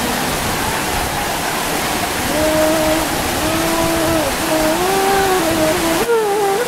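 Heavy rain pouring steadily. Over it, from about two seconds in, runs a melodic line of held, wavering notes.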